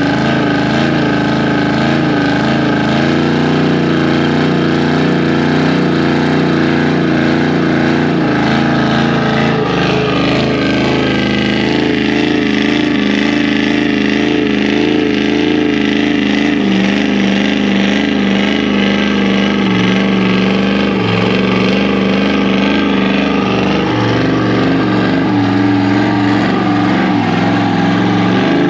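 Truck engine held at high revs during a burnout, its pitch shifting down and up a few times, over a steady rushing noise.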